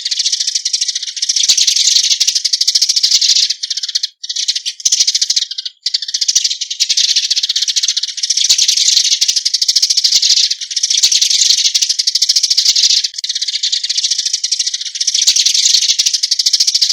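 Eurasian tree sparrows giving their flock-gathering calls: a loud, dense, rapid high-pitched chatter that comes in runs of about two seconds, broken by short pauses.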